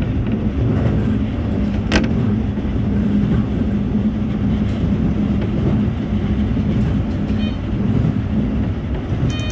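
Toei 5500 series electric train running at steady speed between stations, heard from inside the car: a steady rumble of wheels on rail with a constant hum, and a single sharp click about two seconds in.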